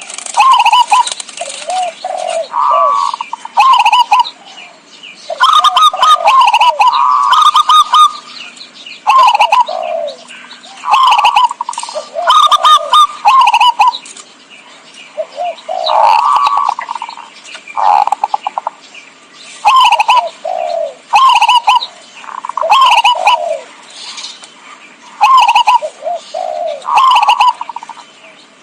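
Zebra dove (perkutut) cooing: loud, rolling coo phrases repeated every second or two, with higher chirping notes above them.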